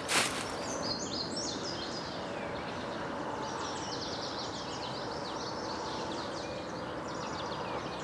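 Small birds chirping outdoors: many short, quick, high-pitched falling chirps over a steady background hiss, after a brief click at the very start.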